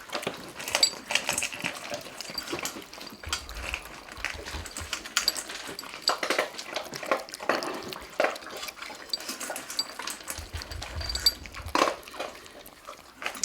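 Cats eating from food bowls: irregular small crunches and clicks of food against the bowls.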